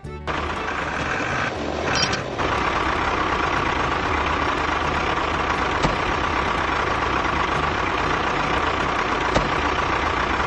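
A vehicle engine running steadily, with a steady whine over it and a brief change in the sound about two seconds in.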